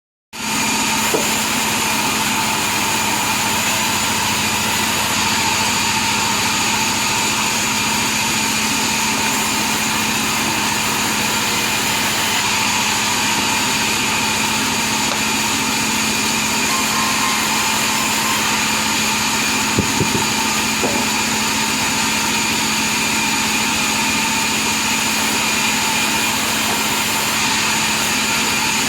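Log-cutting sawmill machine running steadily with a constant whine, with a couple of brief knocks about twenty seconds in.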